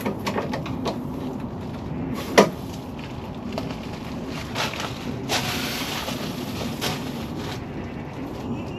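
Scattered clicks and knocks of hand tools and metal parts while a car's tailgate is being worked off, with one sharp knock about two and a half seconds in and a short rushing hiss about five seconds in.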